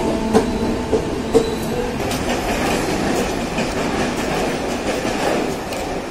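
Mumbai suburban electric local train running along the track: a steady rumble of wheels on rail, with a few sharp clacks over rail joints in the first second and a half.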